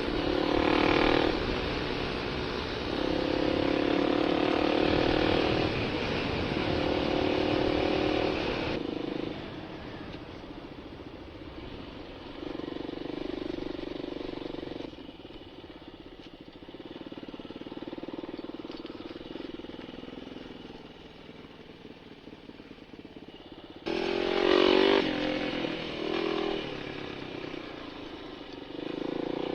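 Dirt bike engine running while being ridden over rough ground, its pitch rising and falling with the throttle. It is loudest in the first few seconds and again from a sudden jump in level near the end.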